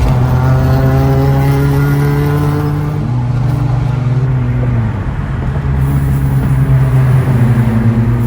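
Car engine running loud, its pitch climbing slowly over the first few seconds, then dropping back and revving again.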